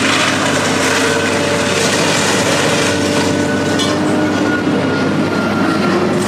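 Heavy machinery running steadily: a loud, even mechanical rumble with faint held whining tones.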